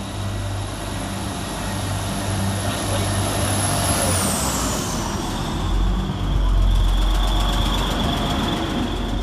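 Train engine running at the station platform: a steady low drone that grows louder about six seconds in, with a high whine that falls in pitch about four seconds in.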